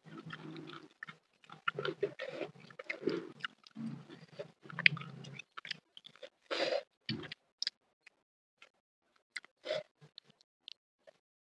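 Close-miked chewing and crunching of a mouthful of food for about five seconds, then sparser short wet mouth sounds with one louder one about seven seconds in.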